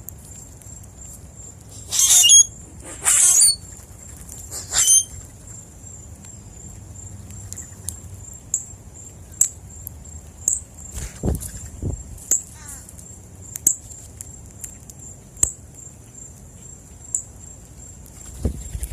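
Birds at a feeder: three short, harsh, raspy bursts in the first five seconds, then scattered soft ticks and a couple of dull thumps, over a steady high-pitched tone.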